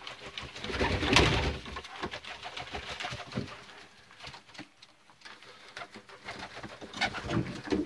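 Racing pigeons cooing in a loft, with scattered rustles and knocks, the loudest about a second in and again near the end.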